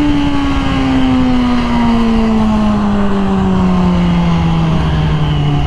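Yamaha R6 sport bike's inline-four engine through its Graves aftermarket exhaust. Right at the start the note steps up in pitch, as in a downshift, then falls slowly and steadily as the bike decelerates. Wind noise rushes over the helmet mic throughout.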